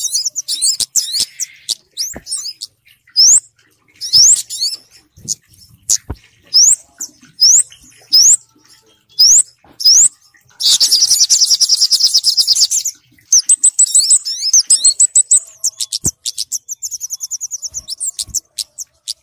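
Bird-lure recording of kemade and sogok ontong calls: high, sharp rising whistles about once a second, mixed with rapid chattering trills. A dense burst of calling comes about two-thirds of the way in.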